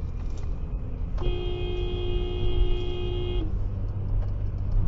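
A car horn sounding one steady blast of about two seconds, over the steady low rumble of a car driving on the road.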